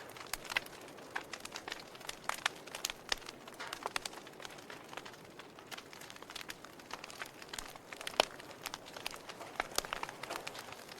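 Wood fire burning in a fireplace, crackling with irregular sharp pops over a soft hiss; the loudest pop comes about eight seconds in.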